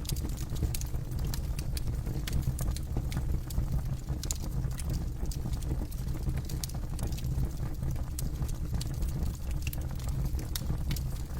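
Campfire burning, with irregular sharp crackles and pops from the wood over a steady low rumble of flame.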